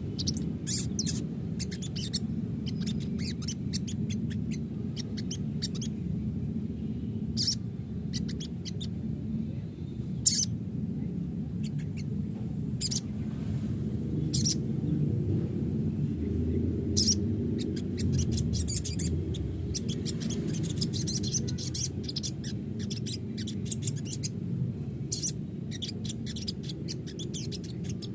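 Sogon bird calling in many short, sharp, high-pitched chirps, irregularly spaced and at times in quick runs, over a steady low hum.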